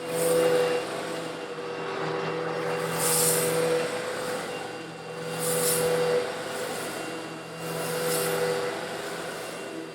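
Old Eureka vacuum cleaner running steadily while sucking up coarse stone granules. The gritty hiss of the granules swells and fades about every two and a half seconds over the even motor hum.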